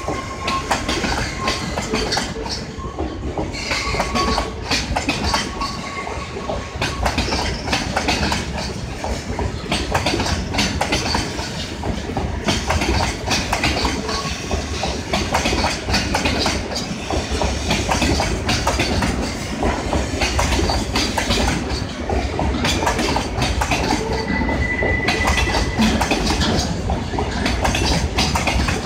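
Freight train of Taki tank wagons rolling past on departure, wheels clicking over the rail joints in a continuous clatter over a low rumble. A few brief high squeals rise from the wheels, the clearest about 24 seconds in.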